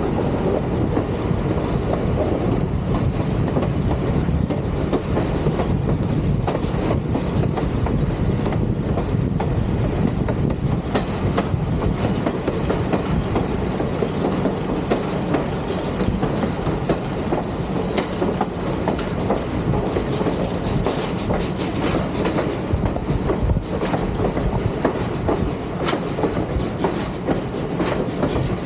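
A moving train's wheels clicking over the rail joints, with a continuous heavy rumble from the rolling cars.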